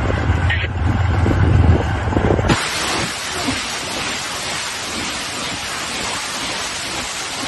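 Heavy vehicle engine rumbling low and steady, then about two and a half seconds in a sudden loud, even rushing noise takes over and holds.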